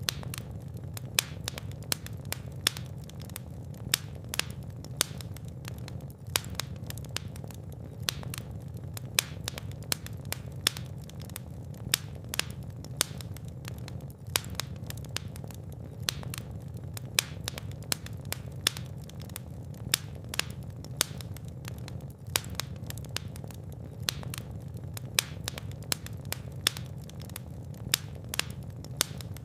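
Fire burning in a fireplace: frequent sharp, irregular crackles and pops over a steady low rumble of flames.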